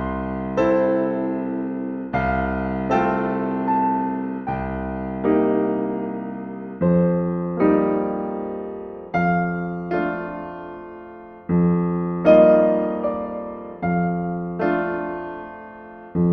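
Solo piano playing slow, gentle chords: a low note and then a chord struck a moment later, the pair repeating about every two seconds, each dying away before the next.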